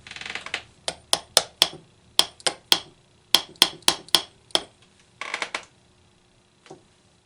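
A run of about fifteen sharp taps and knocks on an old radio, unevenly spaced, each with a slight metallic ring. This is the 'whack it' method of coaxing a radio with dirty contacts into working.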